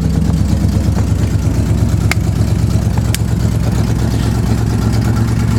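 1967 Chevrolet Chevelle engine idling on a cold start, its idle settling slightly lower just after the start. Two sharp clicks sound about a second apart partway through.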